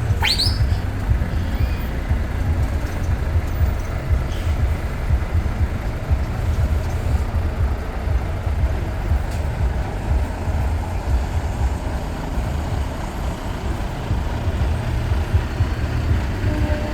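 Heavy trucks rolling past in a slow parade, a continuous deep engine rumble. A short rising whistle sounds just after the start.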